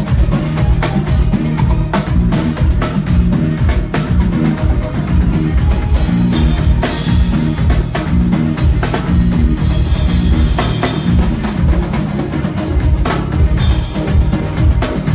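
Live band playing an instrumental groove, with a drum kit's bass drum, snare and rimshots to the fore over a strong bass line, with cymbals washing in now and then.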